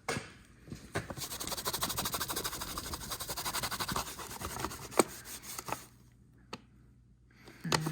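A shop rag rubbed briskly back and forth over a motorcycle's cover, wiping it clean: a quick run of scrubbing strokes starting about a second in and stopping after about four seconds, followed by a few light knocks.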